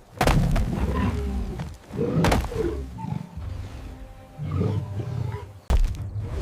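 Several deep animal roars and growls over dramatic background music, coming in separate bursts, the last starting abruptly near the end.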